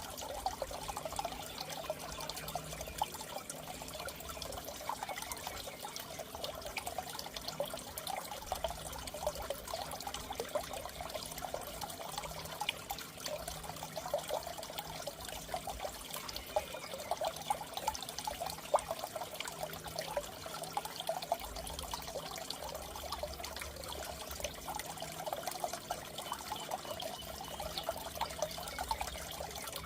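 Aquarium water trickling and bubbling steadily, with many fine splashes and pops, over a faint steady low hum.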